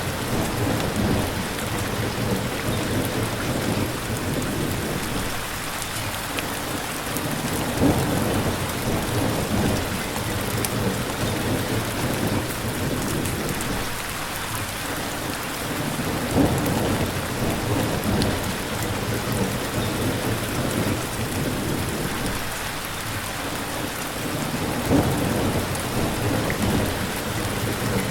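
Rain falling steadily, with a low rumble that swells and fades about every eight seconds.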